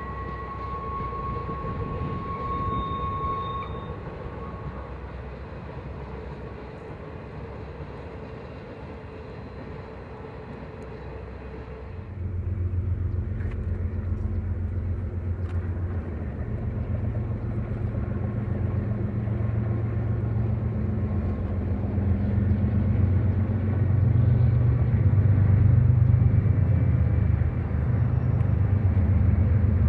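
A train going by. For the first part there is rumble with steady high-pitched ringing tones over it. About 12 s in the sound changes abruptly to a louder, deep rumble with a steady low hum that grows toward the end, as of a train drawing nearer.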